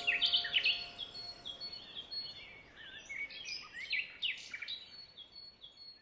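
Small birds chirping and twittering in quick short notes, growing fainter toward the end. The last held notes of a music track die away in the first half second.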